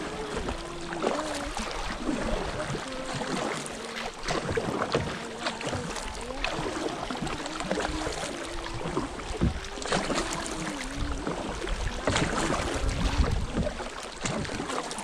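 Kayak paddling on calm river water: paddle strokes dip and splash with many small clicks and knocks against the hull. A wavering low tone that steps up and down in pitch runs underneath.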